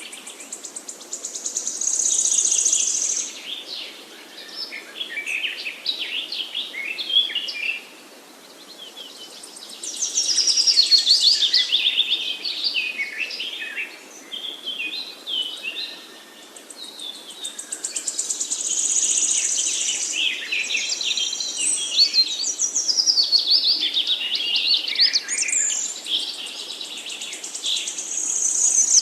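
Woodland songbirds singing. One bird repeats a short song of rapid high trills that steps down in pitch, about every eight seconds, with quieter chirps from other birds in between.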